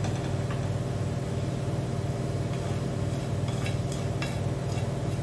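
Onion-tomato masala sizzling as it fries in a nonstick pan, stirred with a wooden spatula, with a few light taps of a spoon against the pan and plate about three to four seconds in. A steady low hum runs underneath.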